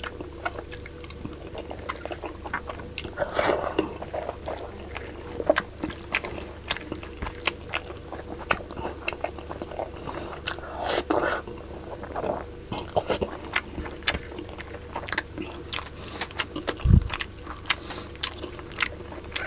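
Close-miked mouth sounds of a person eating sinigang na baboy (pork in sour broth): irregular wet chewing, lip smacks and small clicks. A single low thump comes near the end.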